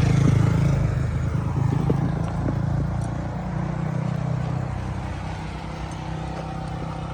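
A motor vehicle's engine and road noise, a steady low rumble that starts suddenly and then eases off gradually.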